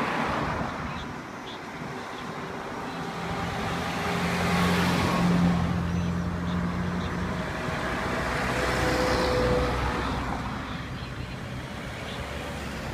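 Road traffic: vehicles passing one after another, their engine and tyre noise swelling and fading about three times, with a low steady engine hum from a passing vehicle in the middle.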